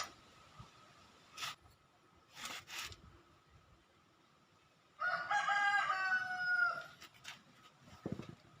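A rooster crowing once, about five seconds in: one long held call that drops in pitch at the end. A few short knocks and rustles come before it and a low thump near the end.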